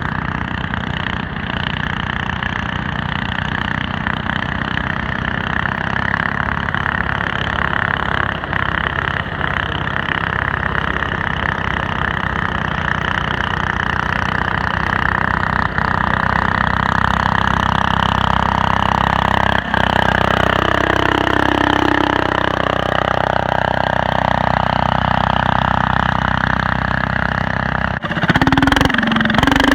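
Coleman CT200U-EX minibike's small single-cylinder engine running steadily, with its pitch gliding up and down as it speeds up and slows about two-thirds of the way through, and an abrupt change in the engine sound near the end.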